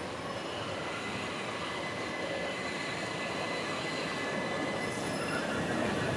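An electric multiple-unit train running through the station, its wheel and track noise slowly getting louder, with a thin, high, steady squeal over it.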